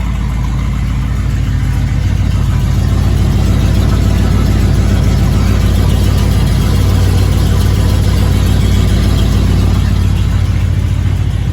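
Carbureted 7.5 L (460) Ford V8 of a 1987 Econoline E350 idling steadily shortly after a cold start, with the exhaust heard up close; it gets a little louder about two seconds in.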